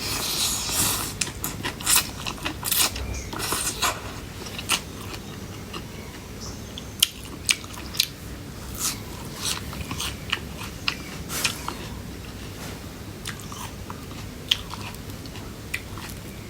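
Crunchy biting and chewing of tam taeng, Thai pounded cucumber salad, close to the microphone. The crunches come thick and fast for the first few seconds, then turn into scattered single crisp bites.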